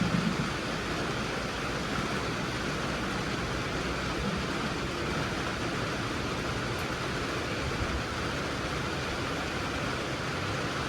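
Steady hiss of falling rain, with a brief louder low knock at the very start.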